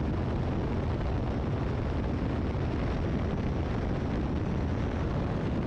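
Great Lakes open-cockpit biplane's engine running steadily in cruise flight, mixed with wind rush, heard from the cockpit.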